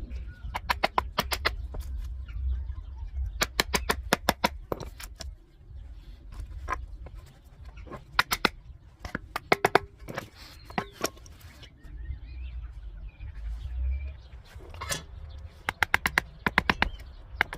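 Quick runs of sharp metallic clicks, several groups of about five to eight clicks each, over a low rumble.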